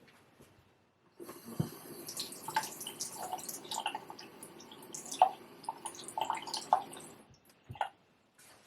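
Water running from a tap for about six seconds, turned on a second in and off near the end, with splashes and drips in the stream.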